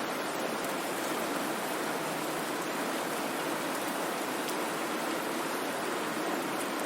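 Steady, even white-noise hiss with no tones or rhythm in it.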